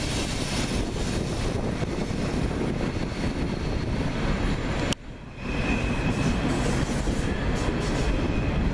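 A train passing: a steady, dense noise that dips briefly about five seconds in.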